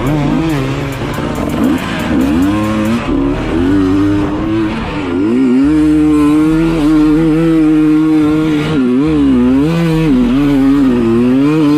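Dirt bike engine revving, its pitch dipping and climbing again and again in short swells, louder in the second half.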